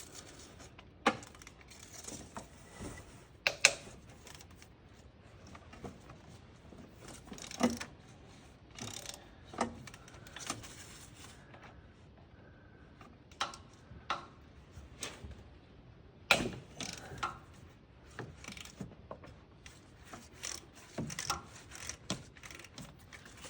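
Ratchet and socket working on manifold nuts, with scattered irregular clicks and metal clinks as the nuts are turned loose.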